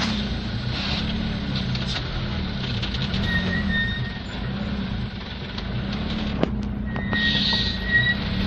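Mitsubishi Canter light truck's diesel engine running with a steady low hum while the sand-laden truck works down a steep slope, with a short hiss near the end.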